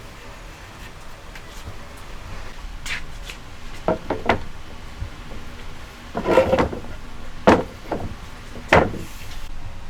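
Irregular wooden knocks and clatter, about half a dozen sharp strikes with a longer rattle a little past the middle, as pieces of timber are handled and fitted.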